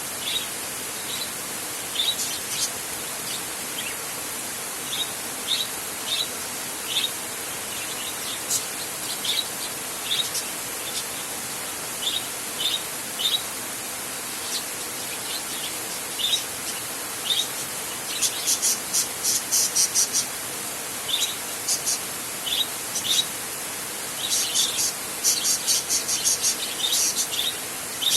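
Steady hiss of rain, with short high chirping calls repeating irregularly over it and quick runs of rapid chirps from about two-thirds of the way in.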